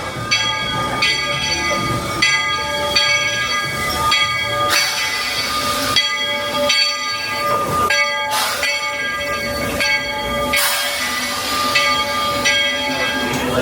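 Steam locomotive bell ringing with steady, evenly spaced strokes, broken several times by loud bursts of steam hiss.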